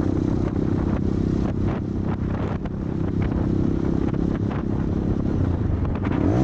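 Motorcycle engine running at a steady speed, with the pitch starting to shift right at the end.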